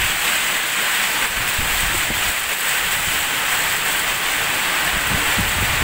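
Heavy tropical downpour, a steady loud hiss of rain falling hard, with low gusts of wind buffeting the microphone.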